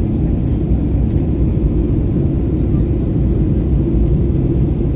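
Steady low rumble of an airplane in flight, heard from inside the cabin: engine and airflow noise.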